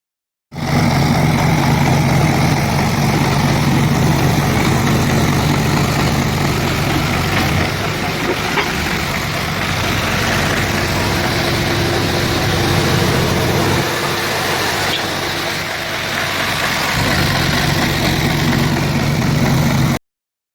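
Tractor engine running steadily while it drives the PTO hydraulic pump of a towed road sweeper, with a steady rushing, brushing noise over it. The low engine note drops back briefly about two-thirds of the way through. The sound starts and cuts off abruptly.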